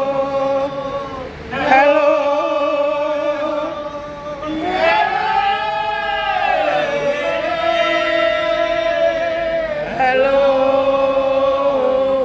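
Slow unaccompanied hymn singing, with long held notes that change every few seconds.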